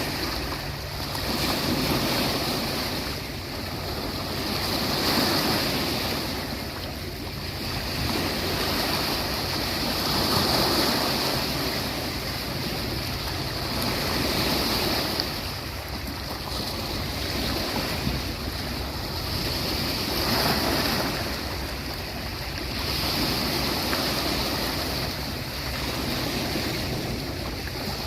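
Sea waves breaking on a beach, the surf swelling and falling back every few seconds.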